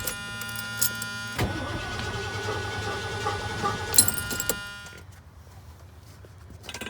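Truck engine cranking on the starter motor without catching, then stopping about four and a half seconds in; the engine will not start, which is the fault being chased in the ignition wiring.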